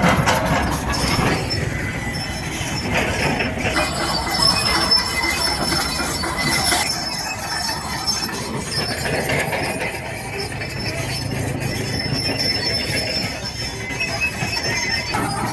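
Hydraulic crawler excavator at work, its diesel engine running under a steady noisy din with thin high-pitched metallic squealing.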